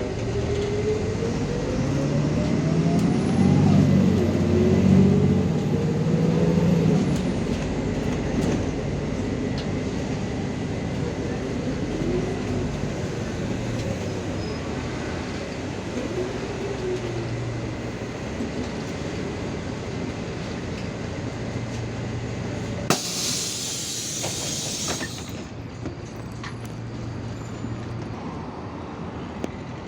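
City bus running, its engine and drive note rising and falling in pitch as it moves. About 23 seconds in comes a sharp burst of compressed-air hiss from its air system, lasting about two seconds.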